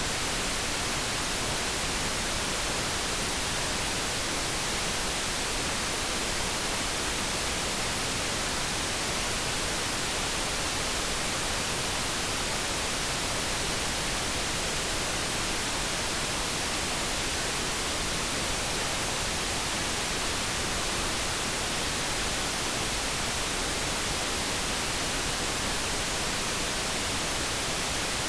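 Steady synthetic noise, an even hiss that does not change, with no tones or other events.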